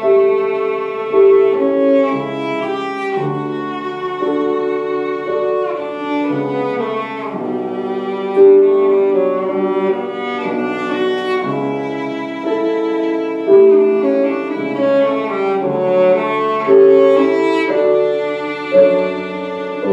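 Cello played with the bow in a lively classical passage of changing sustained notes, with piano accompaniment.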